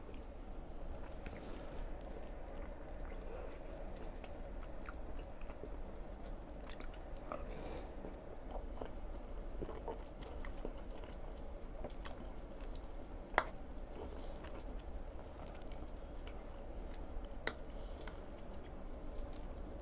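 Close-miked chewing of a mouthful of food, with wet mouth sounds and scattered small clicks over a low steady hum. A single sharp click stands out about 13 seconds in.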